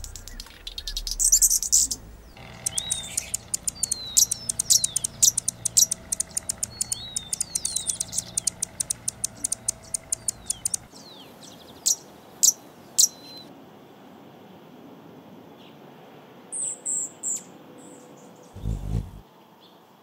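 Small birds chirping: a fast run of high chips mixed with short falling whistles, then three sharp single chirps and, later, three quick high notes. A brief low thump just before the end.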